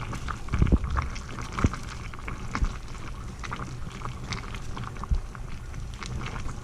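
Water boiling hard in a pan of Orbeez: steady bubbling and crackly popping, with a few low thumps.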